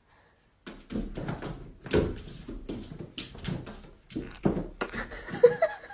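A rapid series of knocks, bumps and scuffing sounds starting about a second in, with a few short pitched sounds near the end.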